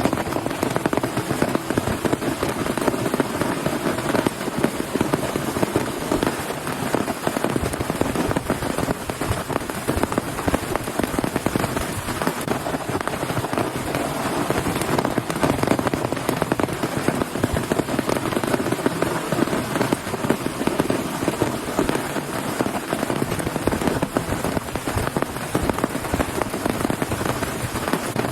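Heavy rain drumming hard on a surface, a dense, steady crackle of countless drop impacts.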